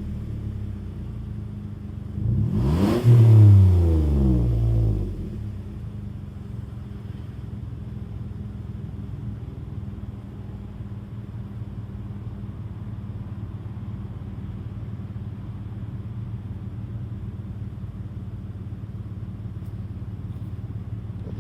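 Warm Toyota 2GR-FE 3.5-litre V6 in a stock 2007 Toyota Sienna, revved once about two seconds in: the pitch rises, then falls back within a few seconds. It then settles to a steady idle.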